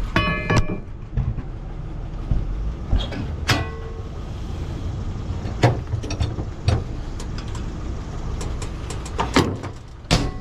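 Tow truck engine running with a steady low rumble, with sharp clanks and knocks scattered through it as the car is strapped down and loaded.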